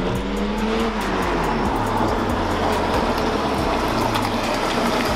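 A car's engine running with a low, steady exhaust rumble as the car drives in.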